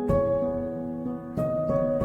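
Slow, soft piano music: sustained chords with new notes struck at the start and again about a second and a half in.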